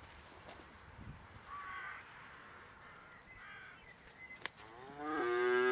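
A crow caws twice, briefly. Near the end a cow starts a long, loud moo.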